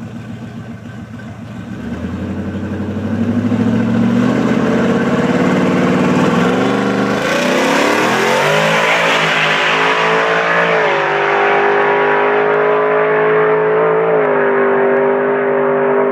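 Built twin-turbo engine of a 2014 Ford F-150 drag truck accelerating hard. About two seconds in it gets much louder and its pitch climbs steeply for several seconds. It then holds at high revs, with brief small dips in pitch twice near the end.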